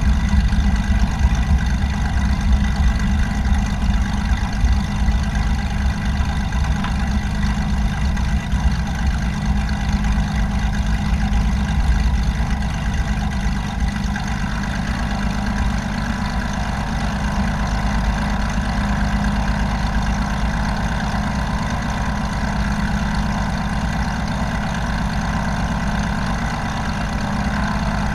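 Light aircraft's engine running steadily, the drone easing slightly in level about halfway through.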